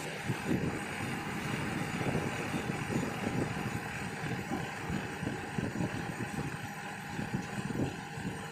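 Perodua Myvi's engine idling with the air-conditioning running while refrigerant gas is topped up, a low uneven rumble under a faint hiss of rain.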